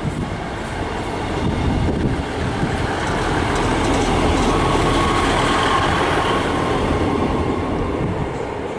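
A passenger diesel multiple unit running on the track, its rumble building to its loudest in the middle and easing off near the end, with a faint high whine around the middle.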